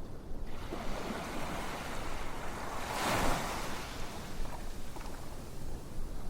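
Ocean surf: a wave swells up about half a second in, breaks in the middle and washes back out, over a steady low rumble of the sea.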